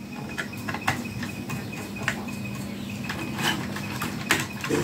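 Scattered clicks and light knocks of the battery fan's plastic housing, switch and screws being handled and worked loose by hand, over a steady low hum.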